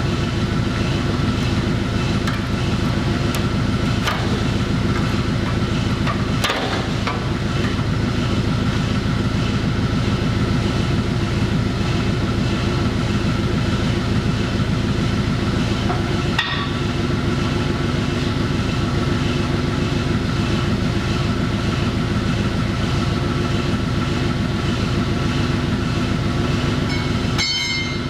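A steady machine running with a fast, even pulse, with a few brief knocks over it.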